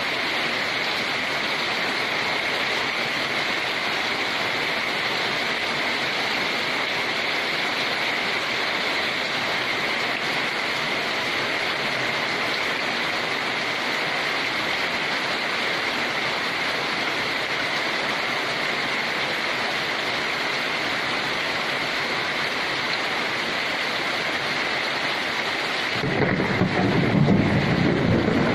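Steady heavy rainfall, an even hiss. Near the end a louder, deeper rushing sound joins in.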